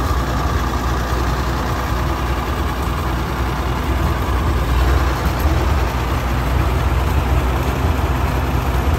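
Antique tractor engine idling steadily with a deep, even running note.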